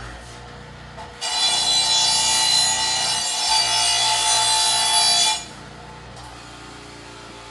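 Impact gun run in one steady burst of about four seconds, starting about a second in and cutting off suddenly.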